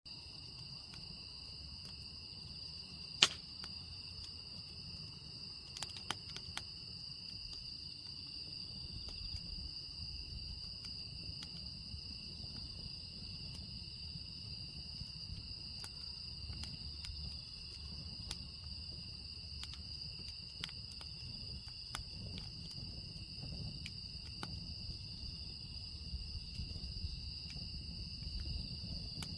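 Firewood burning, with scattered crackles and pops and one sharp, loud pop about three seconds in, over a low rumble. A steady high insect trill, like crickets, runs underneath.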